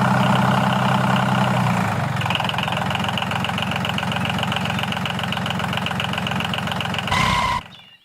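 Small engine running steadily, its note changing about two seconds in, then a short louder burst near the end before it cuts off suddenly.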